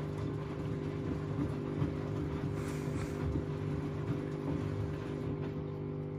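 Washing machine running its down programme with a large pillow in the drum: a steady motor hum over uneven low thuds as the drum turns.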